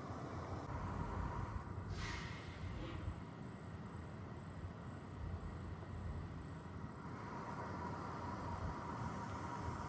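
Road traffic with heavy trucks running, a steady low rumble, with a short hiss about two seconds in. A high chirp repeats about twice a second throughout.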